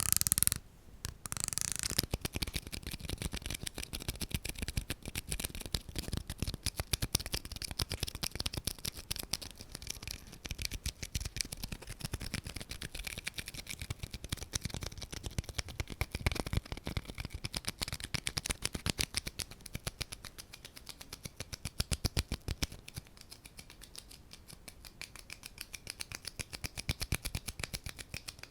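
Rapid, close-miked ASMR clicking and tapping, many small clicks a second, running on steadily after a short gap near the start.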